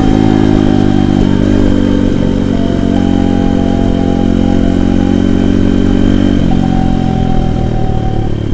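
Avantis 150 pit bike's single-cylinder four-stroke engine running loud while riding. Its note steps up and down several times and drops in pitch a little past six seconds in.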